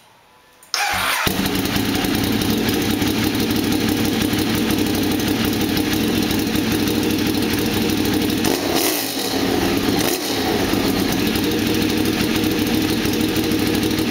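Ducati 848's L-twin engine starting about a second in and then running loudly at idle through mufflers with the end-cap inserts removed, which give it a full race-engine sound. Two brief changes in pitch near the middle.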